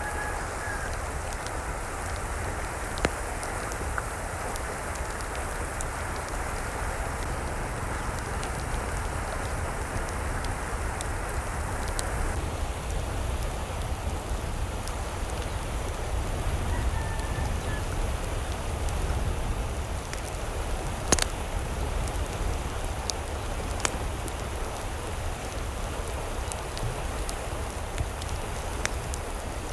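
Steady hiss of falling or running water, with a few sharp ticks and a shift in tone about twelve seconds in.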